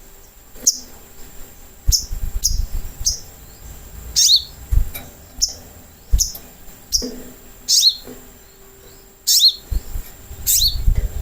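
Little spiderhunter (sogok ontong) giving sharp, high calls, each a quick downward sweep, about one a second at uneven spacing, as used in a lure recording to draw a reply. A few dull low thumps sound under the calls.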